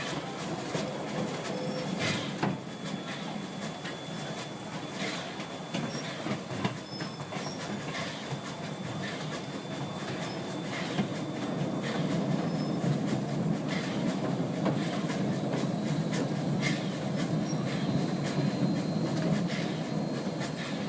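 1927 vintage steam train rolling along the track: a steady rumble with irregular clicks of the wheels over the rail joints, growing louder about halfway through.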